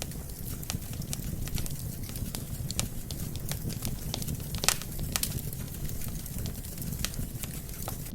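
Wood fire burning logs: a steady low rumble of flames with frequent sharp crackles and pops. The loudest pop comes a little past halfway.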